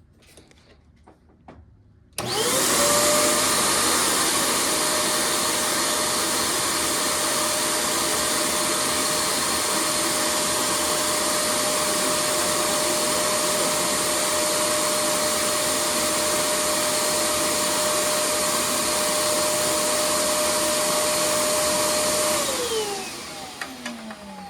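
Hoover Portapower portable vacuum switched on about two seconds in. Its motor comes straight up to a steady whine and runs for about twenty seconds, then it is switched off and winds down with a falling pitch near the end.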